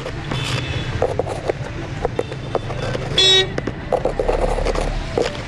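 Road traffic heard from a moving vehicle: a steady engine and road rumble, with one short, loud vehicle horn toot a little past three seconds in and fainter horn beeps earlier.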